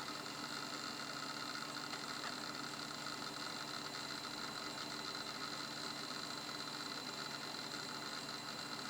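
Hard disk drive from a Toshiba Libretto 50CT laptop spinning, a steady whine made of several tones over a hiss.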